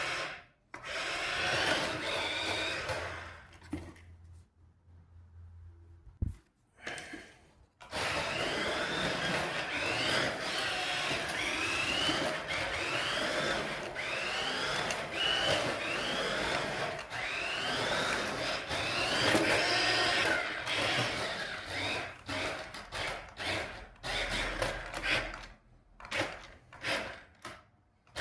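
Small electric motor of a toy-grade 1:14 RC drift car whining under throttle. The whine rises in pitch with each squeeze, about once a second, after a few seconds' pause. Near the end it turns into short stop-start bursts.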